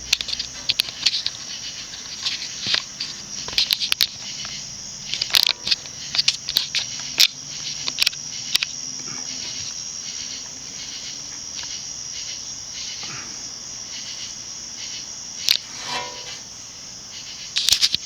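Insects chirping in a steady high trill that pulses at an even pace, with scattered sharp clicks and knocks of handling on top, most of them in the first half and again near the end.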